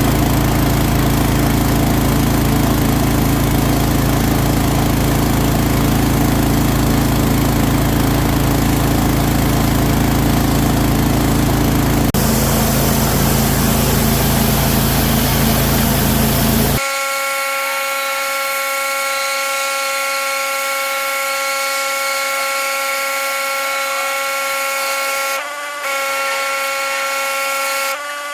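Pressure washer running: a steady engine drone under the hiss of the spray. About two-thirds of the way in the low drone cuts out abruptly, leaving a steady high-pitched whine made of several tones.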